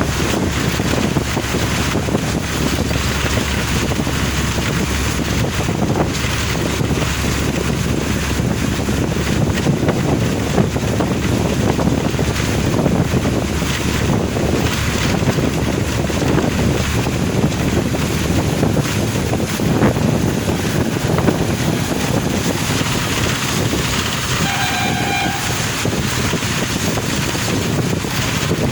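Steady rushing noise of a car driving on a wet road in the rain, tyre spray and wind, with a vehicle horn sounding briefly near the end.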